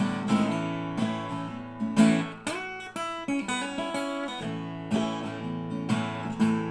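Acoustic guitar strummed in a steady rhythm, an instrumental break between sung lines of a country-style song.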